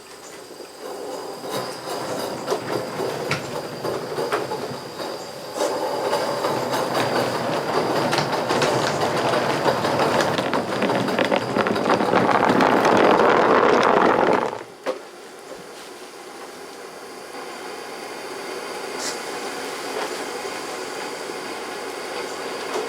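Steam locomotive 4633 working, its exhaust and rail noise building up and growing louder. About fifteen seconds in it cuts off abruptly, leaving a quieter steady hiss.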